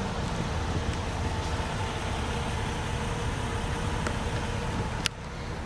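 A vehicle engine idling steadily, with a thin steady tone over it that cuts off with a click about five seconds in.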